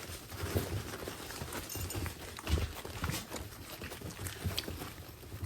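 Pit bull puppies moving about, their paws and claws tapping and scuffling irregularly.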